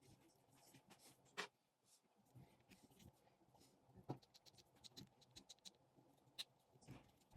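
Faint clicks, taps and scratching from handling the parts of a spinning fishing reel under repair, with a quick run of light ticks past the middle and a few louder knocks.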